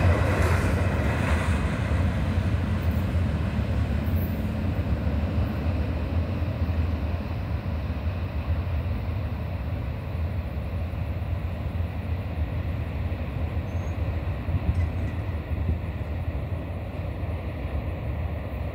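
A freight train's last gondola cars roll past in the first second or so, then its low rumble fades slowly as the train pulls away.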